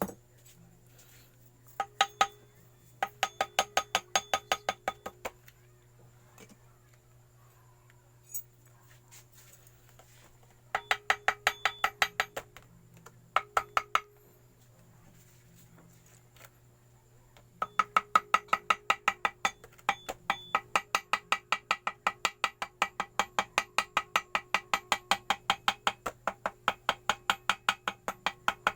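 Quick, even runs of light hammer taps on metal, about five a second, each with a short ring, in three bursts with pauses between: the usual way of cutting a homemade gasket by tapping the gasket paper against the engine's mating edge.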